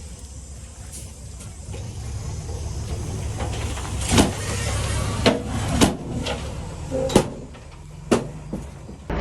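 Diesel engine of heavy earthmoving equipment running and growing louder about two seconds in, with five sharp clanks or knocks over the second half, typical of rock and metal parts banging as the machine works.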